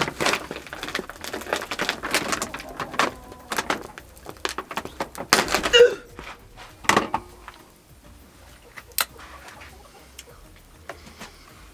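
A woven grain sack rustling and crinkling as it is handled, with sharp clicks of a hand staple gun. The rustling dies down after about six seconds, leaving a few separate clicks.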